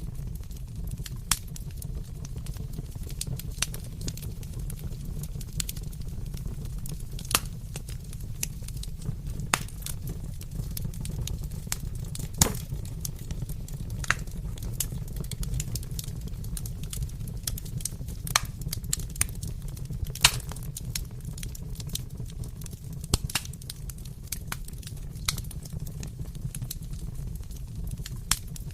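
Wood fire crackling in a fireplace: irregular sharp pops and snaps over a steady low rumble. The loudest pops come about twelve and twenty seconds in.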